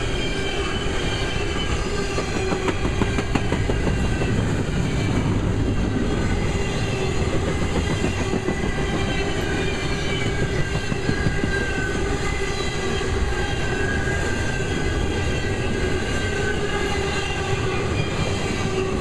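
Double-stack container train's well cars rolling past, a steady rumble and rattle with quick clicks of wheels over the rails. Thin high squealing tones that glide slightly in pitch run over it.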